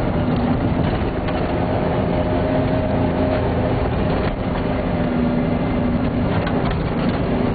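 Four-wheel-drive vehicle's engine running steadily under heavy load as it climbs a soft sand dune, heard from inside the cab.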